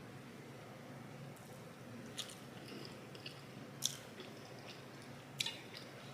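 Quiet chewing of a mouthful of fried rice, with a few short wet mouth clicks about two, four and five and a half seconds in.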